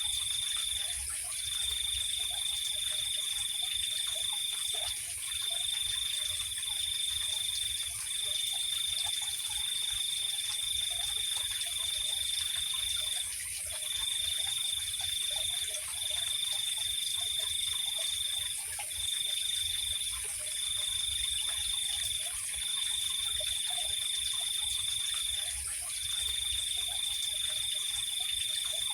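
Night insect chorus: one high, steady trill that runs in long stretches broken by short pauses every few seconds, over a continuous higher-pitched buzz. Faint low chirps are scattered beneath.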